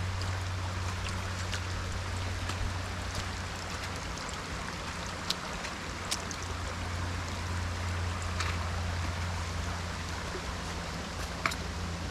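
Creek water running steadily, an even rushing hiss, over a steady low hum, with a few scattered light clicks.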